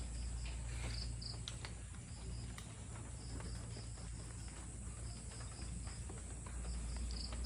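Insects, crickets by their sound, chirping in short repeated pulses over a low steady hum.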